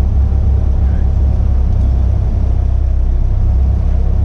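Caterham Academy race car's four-cylinder engine idling steadily while the car sits stationary, a loud even low rumble picked up close by the car-mounted camera.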